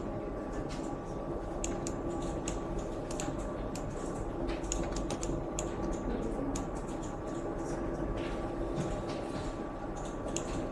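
Irregular clicking of a computer keyboard and mouse, scattered taps all through, over a steady low hum.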